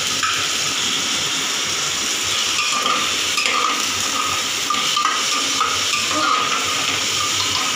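Onions, tomato and spices sizzling in hot oil in an open aluminium pressure cooker, a steady hiss, while a long metal spatula stirs and scrapes the pot.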